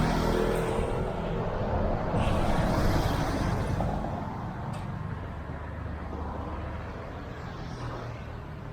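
Road traffic: a motor vehicle's engine passing close, loudest in the first four seconds, then fading into a steady traffic hum.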